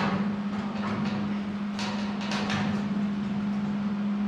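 Several clanks and knocks of a metal piece being handled and tried for fit, one at the start, one about a second in and a cluster around two seconds, over a steady low machine hum.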